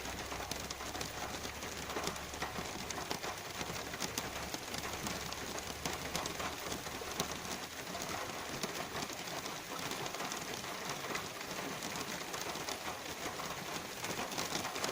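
Light rain falling: a steady hiss with many tiny drop ticks.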